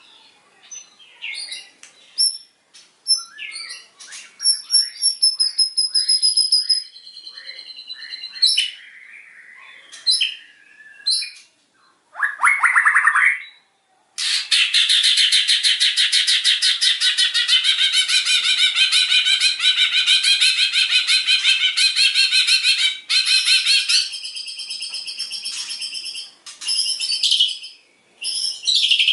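White-rumped shama singing a long, varied song. Clear whistled notes and quick stuttering phrases come first, then about halfway through a loud, rapid trill lasting around nine seconds, then more short, loud phrases.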